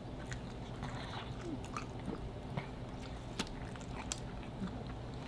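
A person chewing a bite of crispy BBQ pulled pork and bacon pizza: soft crunches and wet mouth clicks scattered throughout, with a few sharper clicks in the second half.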